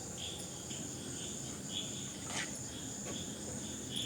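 Crickets chirping: a steady high trill with a second, lower chirp repeating about twice a second. Two faint knocks in the middle.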